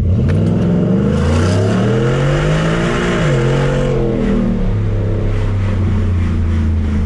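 2018 Ford F-150's 5.0 V8 through an MBRP cat-back exhaust accelerating hard: the engine note climbs for about three seconds, dips briefly at a gear change, then falls away and settles into a steady low drone as the throttle eases off.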